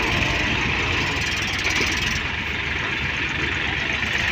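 Tractor diesel engine running steadily with a fast low chugging.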